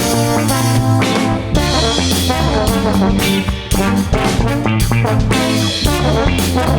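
Live band playing an instrumental passage between sung lines: a drum kit keeping a steady beat under baritone guitar and trombone.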